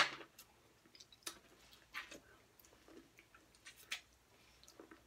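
Faint chewing and biting of people eating corn on the cob and barbecue ribs, with a few short, scattered mouth clicks and smacks.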